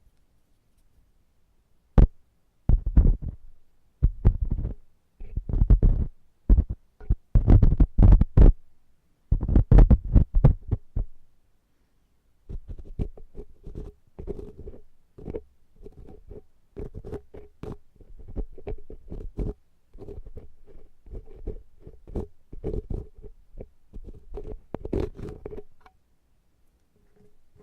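Ear-cleaning tools scraping and rubbing inside a silicone ear model, picked up very close to the microphone. After a quiet start come loud, uneven rubbing strokes for several seconds, then a short pause and a long quick run of lighter, steadier scraping strokes.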